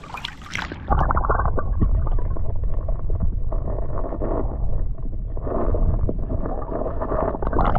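Muffled rush and gurgle of creek water heard with the camera held underwater. About a second in it turns loud and deep, the higher sounds cut off.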